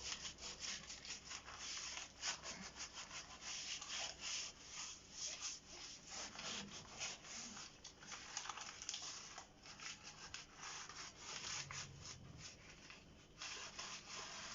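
Crumpled newspaper rubbing over a fireplace's glass door in quick, irregular strokes, wiping off soot loosened by a cleaning spray.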